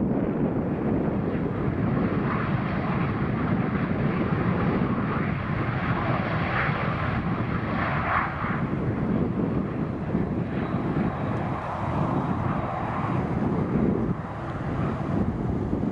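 Airliner's engines running as it passes the airport: a steady, noisy rush that eases slightly near the end, mixed with wind buffeting the microphone.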